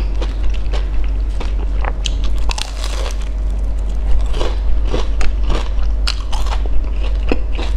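Close-up crunching and chewing of a crisp, sesame-coated fried glutinous rice ball (bánh cam): many irregular sharp crackles as the fried shell is bitten and chewed.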